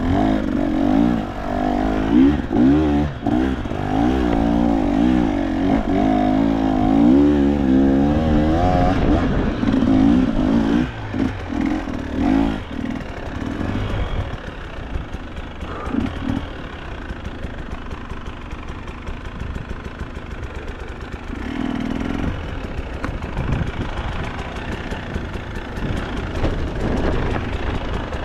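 Two-stroke KTM enduro dirt bike engine revving up and down as it rides a rough trail. About nine seconds in it drops back to a low, quieter running with scattered knocks and clatter, then builds again near the end.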